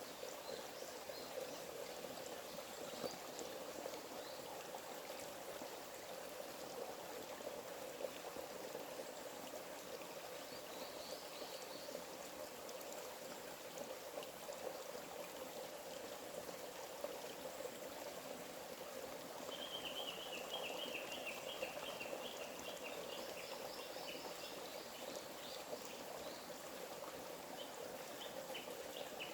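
A small stream running steadily, with birds calling over it: a brief call about eleven seconds in and a rapid string of short chirps about two-thirds of the way through.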